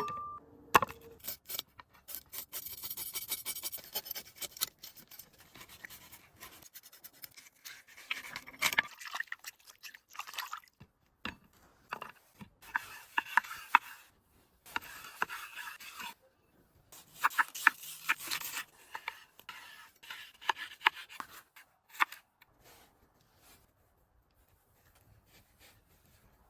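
Close-up scraping and rubbing sounds in irregular bursts with short pauses between them, dotted with sharp clicks and knocks, typical of hands working with a knife and food during cooking preparation.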